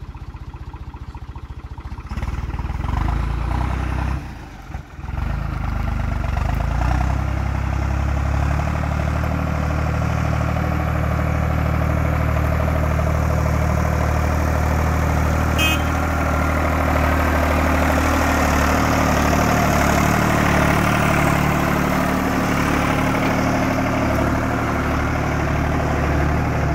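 New Holland TD65 tractor's diesel engine running steadily. It gets much louder about two seconds in and dips briefly around four to five seconds, with a single short click near the middle.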